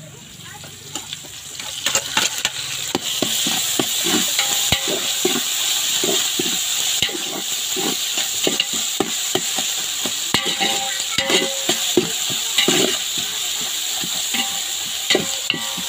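Onions, tomatoes and ginger-garlic paste sizzling steadily in hot oil in a metal pot, with a metal ladle scraping and clinking against the pot as it is stirred. This is the stage where the raw smell of the paste is fried off. The sizzle is quieter at first and grows louder about two seconds in.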